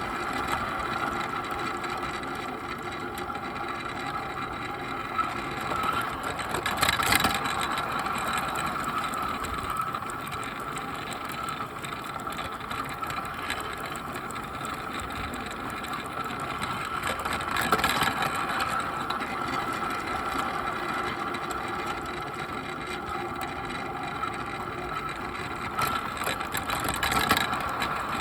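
Bachmann Percy garden-railway locomotive running along the track: its electric motor gives a steady whine over the rumble of the wheels on the rails, with a few brief, louder clatters at about a quarter of the way in, past the middle, and near the end.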